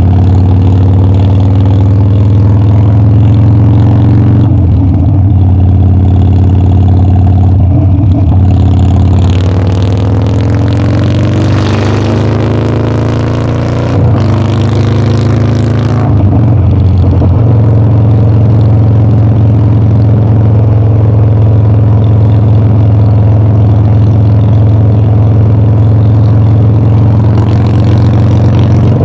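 Harley-Davidson Dyna's V-twin engine running loud under way, with a brief break in the note a few times. Through the middle it climbs in pitch as the bike accelerates, then settles into a steady cruising note.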